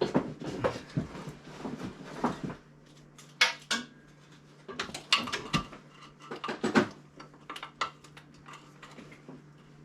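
Metal hand tools clinking and knocking: a socket on a wobble extension being fitted and worked against metal under a car, in irregular clanks that come thickest in the first couple of seconds and again about five to seven seconds in.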